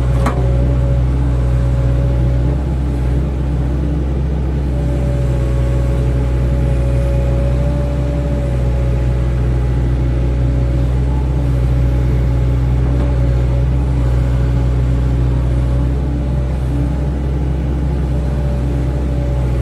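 Excavator diesel engine running steadily at an even speed, with a steady whine above its drone. There is a short sharp click right at the start.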